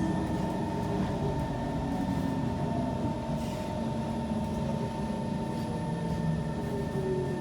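Kawasaki C151 metro train heard from inside the car while running: a steady rumble and hum, with a motor whine that falls in pitch near the end as the train slows.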